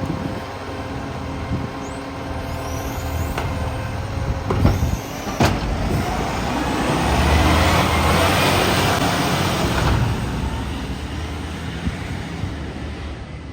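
Garbage truck with an exhaust leak running, its engine rumbling steadily and growing louder for a few seconds past the middle. Two sharp clacks sound about five seconds in.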